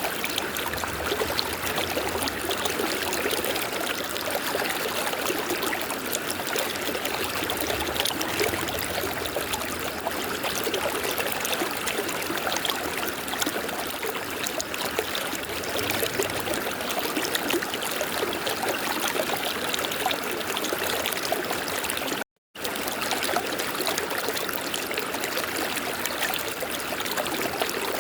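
River water flowing and rushing steadily over rocks. It cuts out completely for a split second about three-quarters of the way through.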